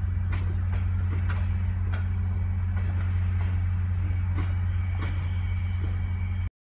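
VIA Rail passenger coaches rolling past, their wheels clicking over rail joints about a second apart, over a steady low drone. The sound cuts off suddenly near the end.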